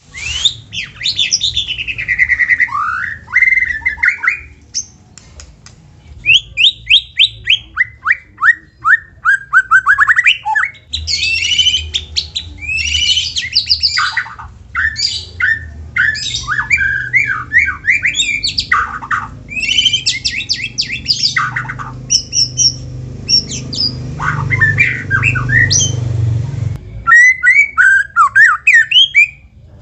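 White-rumped shama singing: phrase after phrase of fast sweeping whistles, trills and harsh chattering notes, with short pauses between phrases. A low hum runs underneath and stops a little before the end.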